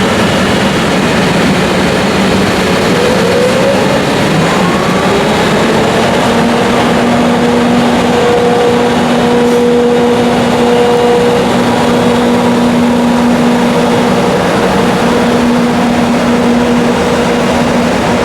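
An EF64 electric locomotive's cooling blowers running loudly next to its machine room, a dense rushing noise. A few tones glide upward in pitch over the first few seconds, then settle into a steady two-note hum.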